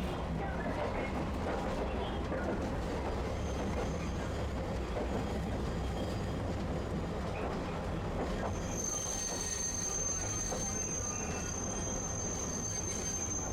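Tosaden streetcar running on its rails with a steady low rumble; about nine seconds in, a high steady wheel squeal sets in and holds.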